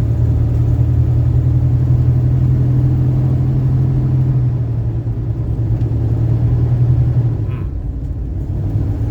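1980s motorhome's engine pulling steadily under way, a low drone with the automatic transmission holding its gear and not shifting up. The drone eases off about seven and a half seconds in, then picks up again.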